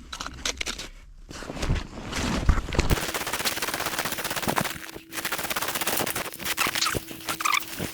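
Close handling noise on a GoPro's microphone: irregular knocks and scrapes. About three seconds in, these turn abruptly into a dense, crackly rustle of the camera rubbing against fabric.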